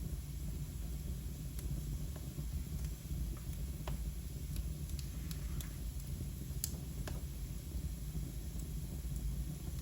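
Wood fire burning: a steady low rumble with sparse, irregular sharp crackles, the loudest about two-thirds of the way through.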